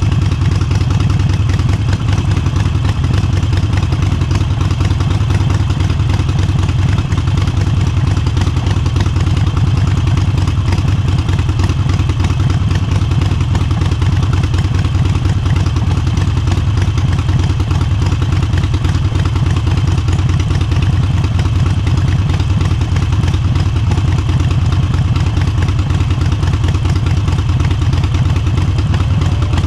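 Motorcycle engine and exhaust running steadily at an even speed, with no rises or drops in revs.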